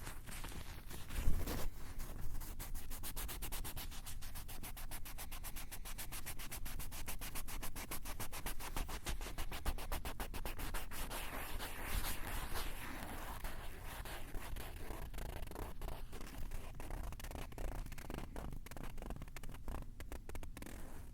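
Scratching and rubbing directly on a Tascam handheld recorder's built-in microphones, close and harsh. The strokes come rapid and even for much of the time, then grow uneven, with one sharp knock about a second in.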